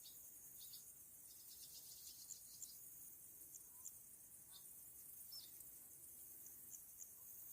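Faint, steady high-pitched chorus of insects chirping, with short separate chirps now and then.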